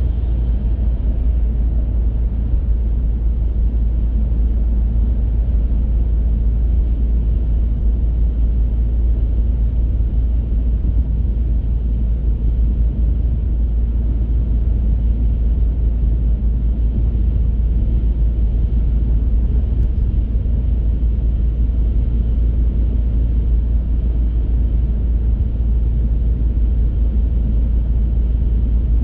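Steady low rumble of a car driving along: tyre noise on the road and the engine running at an even pace.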